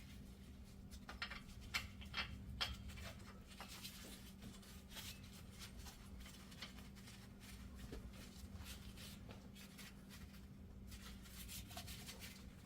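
Faint, scattered metallic clicks and scrapes of hand-threading the bolts of a Jeep Wrangler's front hub bearing, most of them in the first few seconds, over a steady low hum.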